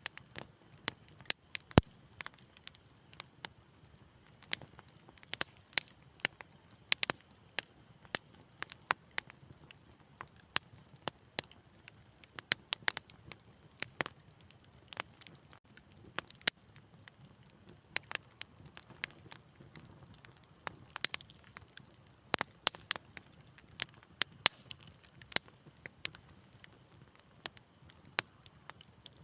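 Wood fire crackling: irregular sharp pops and snaps, several a second, over a soft low rush of burning.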